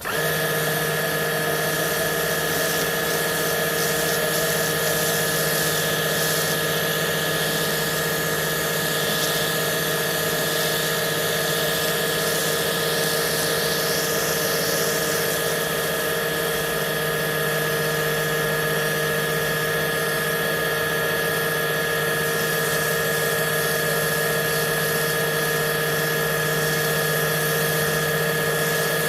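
Kärcher lithium-ion pressure washer's electric pump switching on abruptly and then running steadily, a constant hum under a hiss.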